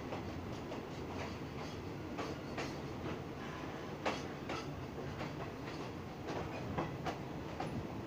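Train running on the rails: a steady rumble with scattered, irregular clicks and clacks from the wheels.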